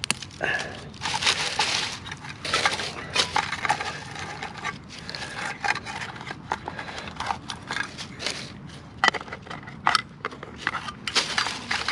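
Chunks of soft, rotten pine punkwood being crammed into a metal charring tin: irregular crunching and crumbling of the wood with sharp knocks and clicks against the tin.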